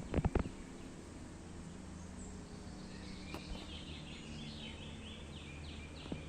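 A bird chirping, a quick run of short high notes in the second half, over a steady low hum. A few sharp knocks sound in the first half second.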